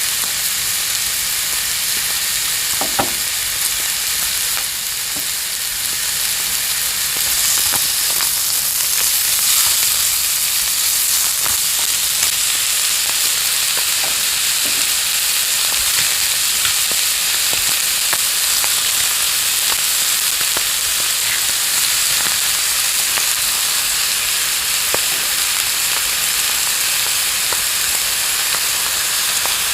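Lettuce sizzling as it is stir-fried in a frying pan: a steady high hiss with occasional sharp clicks as it is stirred.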